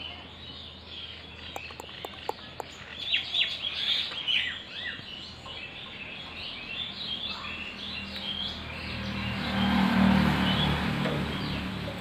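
Birds chirping and calling, with quick downward-sweeping calls most busy about three to four seconds in, and a few sharp clicks about two seconds in. Near the end a rush of noise with a low hum swells up, loudest about ten seconds in.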